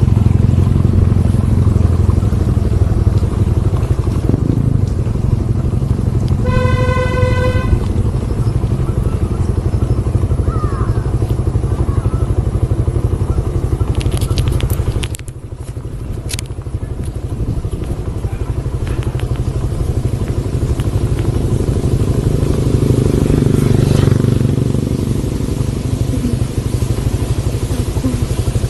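Motorcycle engine running steadily while riding. About a quarter of the way in, a horn sounds once for about a second. The engine noise drops briefly about halfway through.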